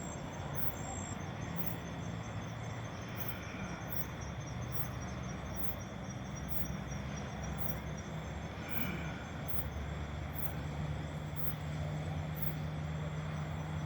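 Insects chirping outdoors after dark: a very high, short pulse repeating about once a second, over a steady hiss and a low, steady hum.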